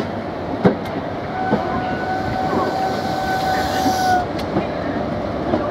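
First Great Western passenger coaches rolling past, their wheels knocking over rail joints about once a second over a steady rumble. A steady whistle-like tone sounds for about three seconds in the middle.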